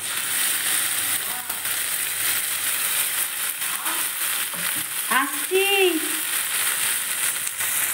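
Wet ground masala paste of tomato, ginger-garlic and cashew sizzling in hot oil over fried onions in a wok, a steady frying hiss. A short voice-like sound comes through about five seconds in.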